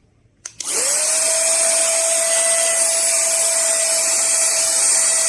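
Coloisa 5-in-1 cordless vacuum cleaner-blower switched on with a click about half a second in. Its motor spins up with a quickly rising whine, then runs steadily with a loud rush of air under the steady whine.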